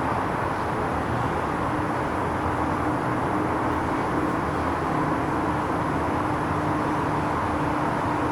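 Steady outdoor background noise with a faint steady hum that comes in about a second and a half in; no thunderclaps.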